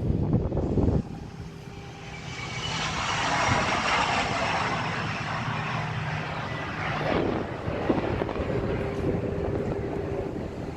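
An aircraft flying past, its engine noise swelling from about two seconds in and easing off after about seven seconds. Wind buffets the microphone in the first second and cuts off abruptly.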